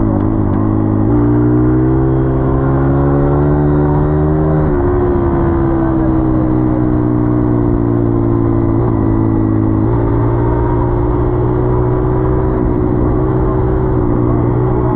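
Dirt bike engine running under throttle as it is ridden. Its pitch steps up about a second in, climbs, drops back around the middle, and steps up again about two-thirds of the way through.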